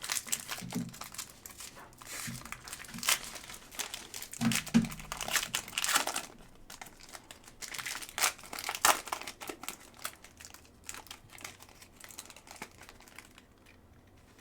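Packaging around a framed autograph card crinkled and torn open by hand: irregular crackles and rustles that thin out and grow quieter over the last few seconds.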